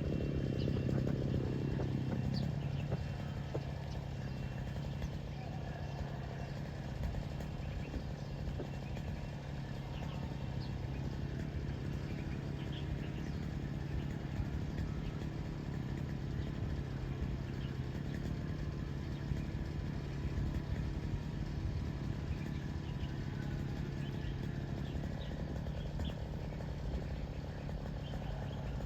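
A steady low engine hum, with a louder passing swell that fades in the first couple of seconds, and faint scattered small-bird chirps.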